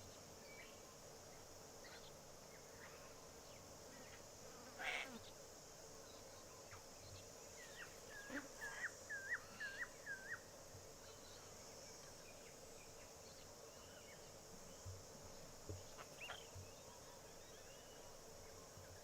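Apostlebirds giving scattered short calls, including a quick run of about six repeated chirps between eight and ten seconds in, over a steady high insect buzz.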